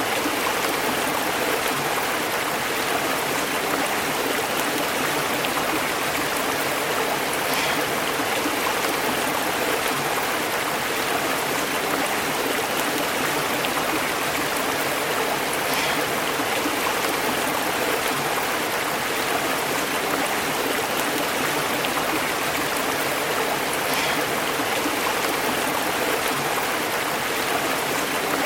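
Shallow stream running steadily over rocks, a continuous burbling rush of water.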